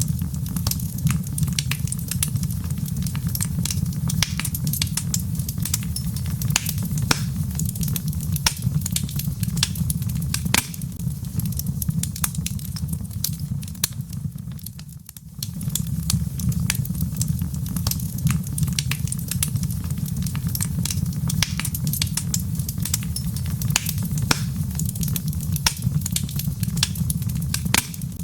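Log fire in a fireplace crackling: frequent sharp snaps and pops over a steady low rumble. The sound drops away briefly about halfway through, then resumes.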